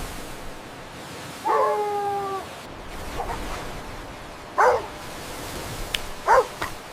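Puppies whining and barking: a drawn-out whine about a second and a half in, then a faint short bark and two loud, sharp barks near the end.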